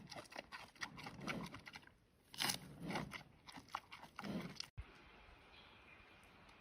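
Giant panda biting and chewing bamboo: a run of sharp cracks and crunches that cuts off suddenly about three-quarters of the way through.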